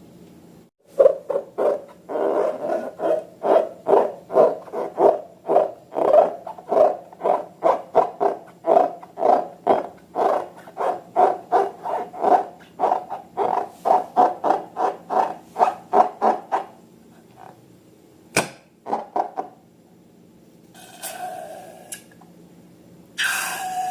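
Slime being squeezed and kneaded by hand in a fast regular rhythm of wet squelches, about two or three a second. The squelching stops after about seventeen seconds, followed by a sharp click and two short rustling sounds near the end.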